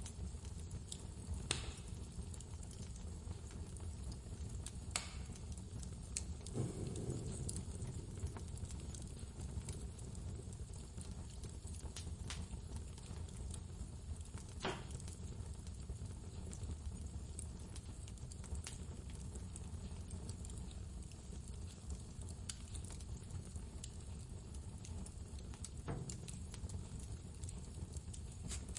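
Blizzard wind blowing as a steady low rumble, with a wood fire crackling in occasional sharp pops, about half a dozen scattered through.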